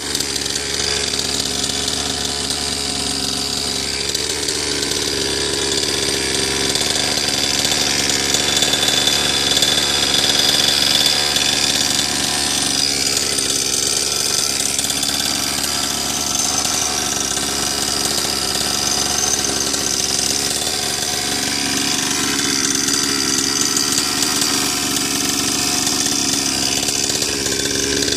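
Small two-stroke engine of a 49cc minicross bike idling steadily, swelling slightly in loudness about a third of the way in.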